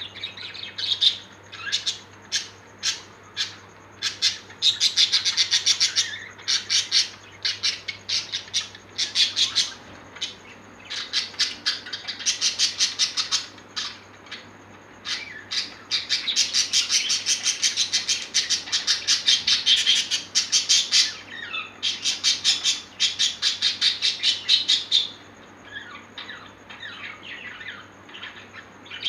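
A parrot calling in fast runs of harsh, repeated squawks, several calls a second, in bouts of a few seconds separated by brief pauses.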